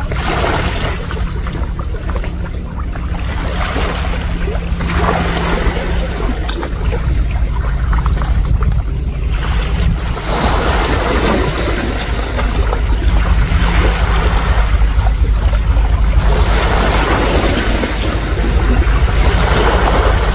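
Wind buffeting the microphone over the surf, with small waves rolling in and washing ashore in swells every few seconds.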